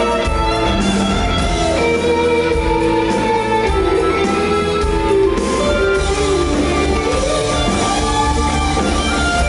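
Live rock band playing an instrumental passage: a lead line of held notes that slide and bend in pitch, over guitar, bass and drum kit.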